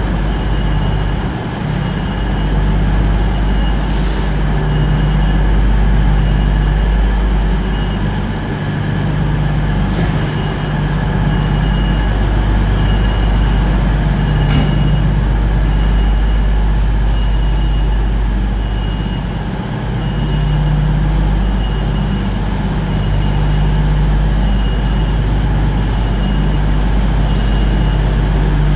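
A train's steady low rumble, with a faint high tone pulsing at an even beat and a few light ticks.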